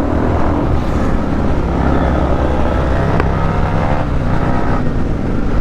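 Many motorcycle engines running together, loud and steady, with a single sharp click about three seconds in.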